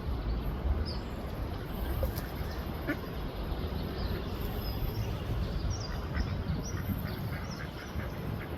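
Duck quacking in short, scattered calls over a steady low rumble.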